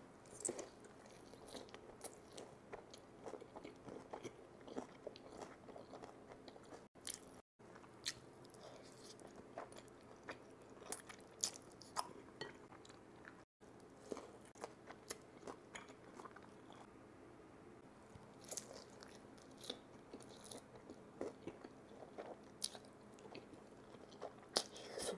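Close-miked biting and chewing of a crispy fried chicken tender with noodles: irregular crunches and wet mouth sounds, broken by a few brief dropouts.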